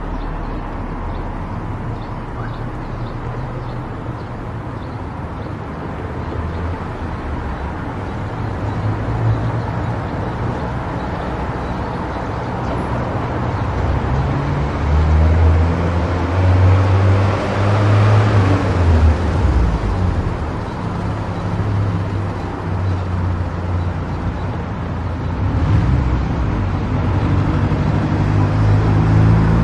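Car driving along a road: steady engine hum and tyre noise with a low rumble. It grows louder around the middle, with a brief rise and fall that may be another vehicle going by.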